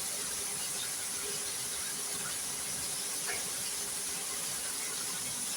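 Chicken thighs sizzling steadily in hot frying oil, with a faint pop about three seconds in.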